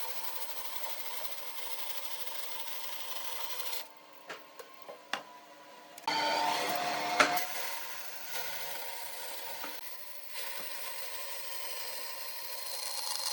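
Woodworking machinery working wood: a steady motor hum under the scrape and rub of a tool on timber. A few sharp knocks come about four to five seconds in, then a louder stretch of cutting with a sharp crack near the seven-second mark.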